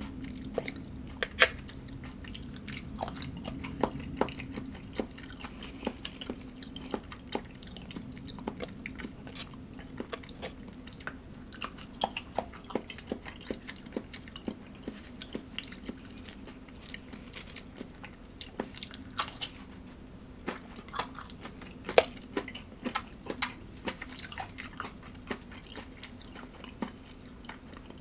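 A person chewing and biting food close to the microphone: irregular crunches and wet clicks, several a second, with a faint steady low hum underneath.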